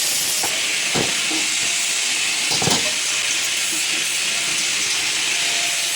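Steady high hiss of a TIG welding torch on stainless steel, with two short knocks about a second and nearly three seconds in.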